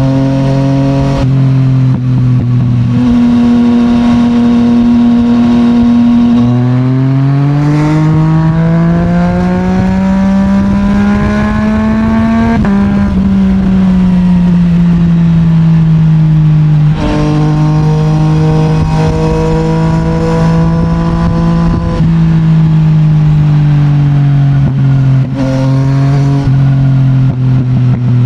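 Yamaha MT-09's CP3 inline three-cylinder engine through an Akrapovic titanium exhaust, heard while riding. The engine note climbs steadily for several seconds under acceleration, eases off, then settles into a steady cruise that slowly drops in pitch.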